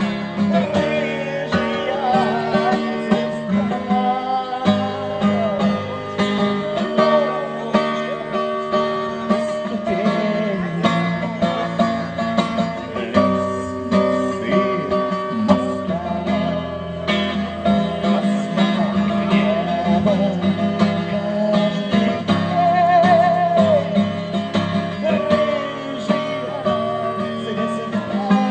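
Live acoustic guitar playing an instrumental break between verses of a song, with a wavering melody line over the chords.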